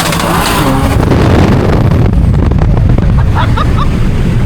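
Loud, low rumble of a high-horsepower street car's engine.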